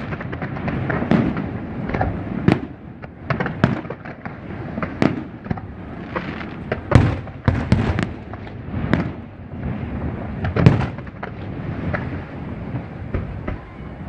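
Fireworks display: a rapid, irregular series of aerial shell bangs and crackles, with the loudest bangs about seven and ten and a half seconds in.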